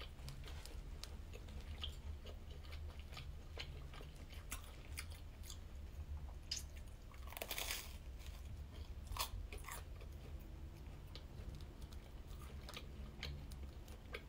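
Close-up eating sounds: biting into and chewing a thick toast sandwich filled with peanut butter and condensed milk, with small crunches and mouth clicks throughout and one louder crunch about halfway.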